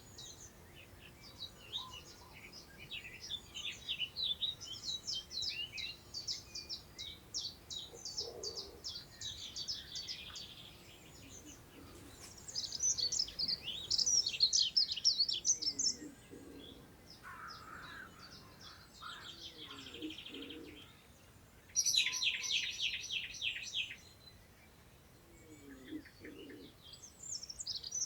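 Several songbirds singing over a meadow, with rapid high trills and warbled phrases coming in bouts of a few seconds, the loudest about midway and again near the end. A few short, falling low notes sound now and then, over a faint steady rush of wind in long grass.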